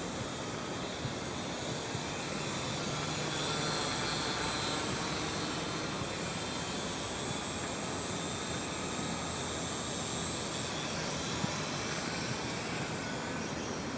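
Small quadcopter drone in flight, its propellers giving a thin steady whine over a broad outdoor noise.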